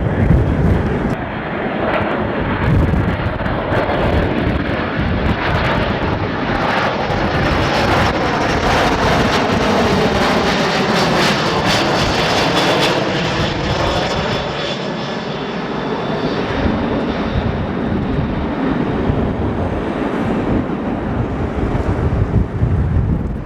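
Airliner passing close on its landing approach, its engine noise loud and steady, with a sweeping rise and fall in pitch near the middle as it goes by.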